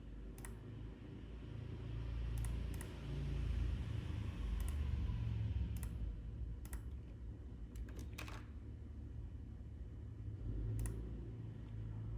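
Scattered clicks of a computer mouse and keyboard, about ten at irregular intervals, a pair in quick succession about eight seconds in, over a steady low rumble.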